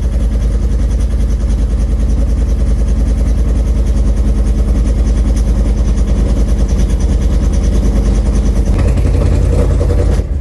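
Ford Mustang GT's cammed V8 running with headers and a Corsa exhaust, held on the throttle and running rough, which the owner puts down to exhaust clamps not yet tightened and leaking. Near the end the engine note sags as it starts to stall.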